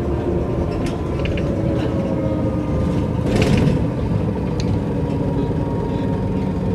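Mercedes-Benz O405 N² city bus driving with its Voith automatic gearbox, heard from inside: a steady engine and drivetrain drone with interior rattles and clicks, and a brief hiss about three and a half seconds in.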